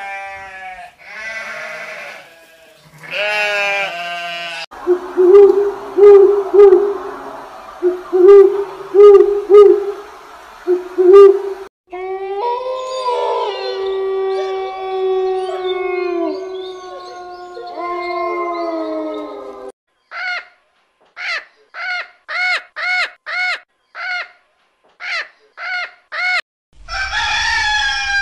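A run of different animal calls. Sheep bleat for the first few seconds, then an unidentified animal gives loud, pulsing calls. From about twelve seconds in, several wolves howl together in long, sliding howls, followed by about a dozen short, evenly spaced calls; a rooster starts crowing at the very end.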